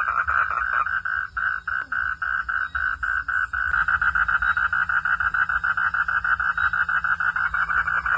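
Frog calling: a fast, even train of pulsed croaks, about eight a second. It thins to slower, separate pulses for a couple of seconds and picks up again about four seconds in.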